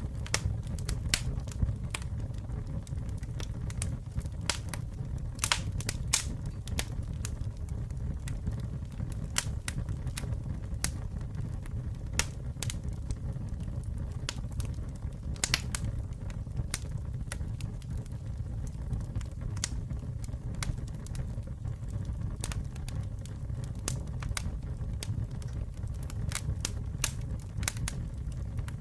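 Wood campfire burning with irregular sharp crackles and pops over a steady low rumble of the flames, a few pops louder than the rest.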